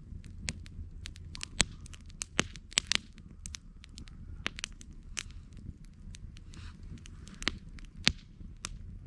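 Wood campfire crackling, with irregular sharp pops and snaps, a couple of them much louder, over a steady low rumble.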